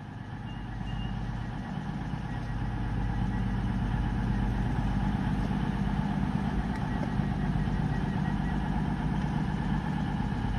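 Diesel engines of a CrossCountry Class 220 Voyager unit idling at a station platform: a steady low engine note that grows louder over the first few seconds, then holds.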